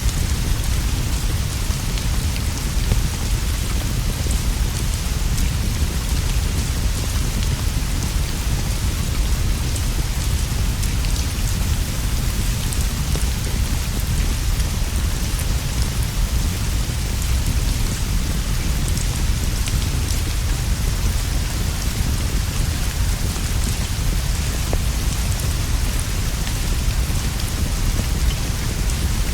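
Steady rainfall, an even hiss with a constant deep rumble underneath.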